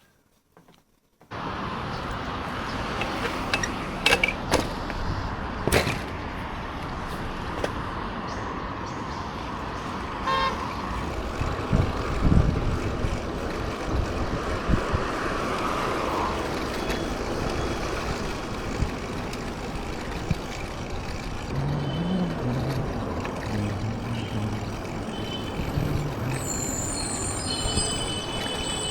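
Road traffic noise that starts suddenly about a second in and runs steadily, with vehicles passing and a short horn toot about ten seconds in.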